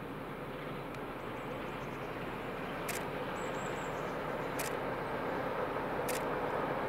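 Steady rumble of an approaching diesel-hauled train, growing slowly louder, with sharp clicks about every second and a half.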